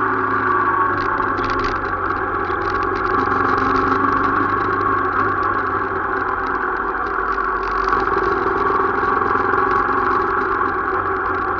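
A vehicle engine running steadily, holding an even speed with no revving.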